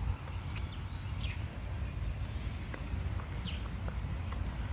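Newborn puppies giving short, high squeaks that fall in pitch, about one every two seconds, over a steady low rumble.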